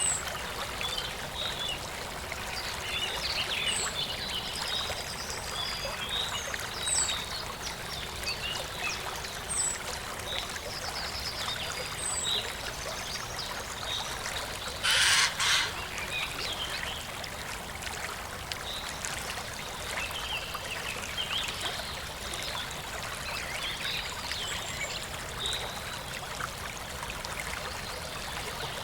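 Water running steadily in a stream with small birds chirping and calling over it. About halfway through comes a brief, loud, harsh sound in two quick pulses, louder than everything else.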